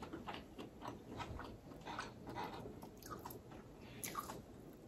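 A person chewing food close to the microphone, with irregular soft wet mouth clicks and snaps a few times a second.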